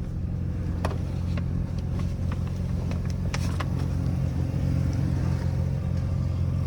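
Mazda RX-7 twin-turbo 13B rotary engine idling steadily while it warms up after a cold start, with a few light clicks over it.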